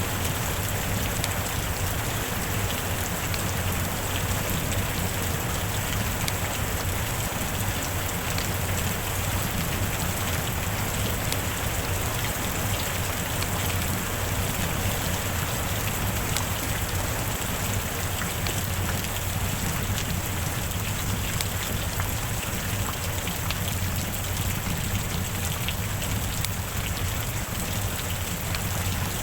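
Steady heavy rain: an even hiss of falling rain with many small drop taps and a constant low rumble underneath.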